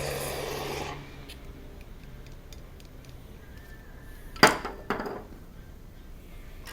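Honda Hunter Cub 50's small single-cylinder engine running, then cutting off about a second in. A few seconds later come two short, loud scraping sounds about half a second apart.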